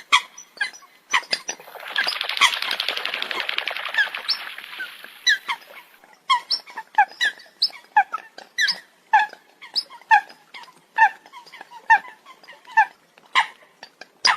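Eurasian coot calling: short, sharp calls that drop in pitch, about two a second, with a dense burst of rapid chattering from about two to five seconds in.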